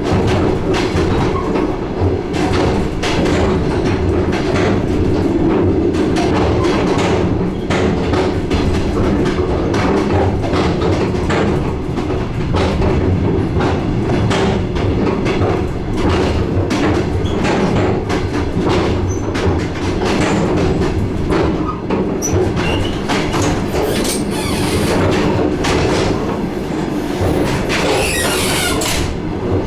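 DR1A diesel multiple-unit train running along the line, its wheels clattering over the rail joints in a dense run of clicks over a steady running drone. A couple of brief high hissing sounds come near the end.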